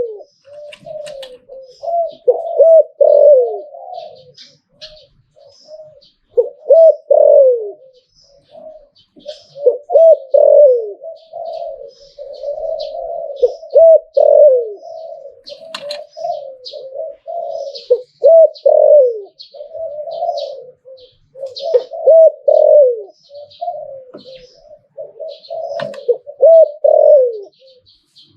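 Spotted dove cooing over and over, phrases of low coos with short downward-sliding ends following one another every few seconds. Faint high chirps of small birds sound in the background.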